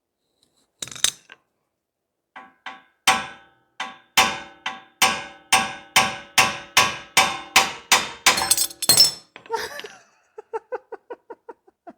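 Hammer striking steel suspension parts to knock loose a stuck ball joint, each blow a sharp metallic clang that rings on. A few spaced blows come first, then a rapid run of about three a second, then lighter, quicker taps near the end.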